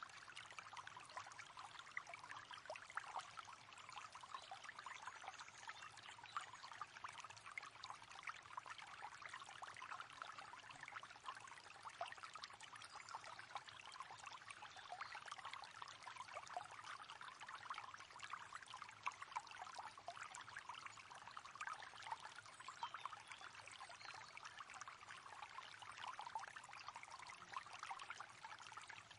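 River water running and babbling over rocks, a steady stream of gurgles and splashes.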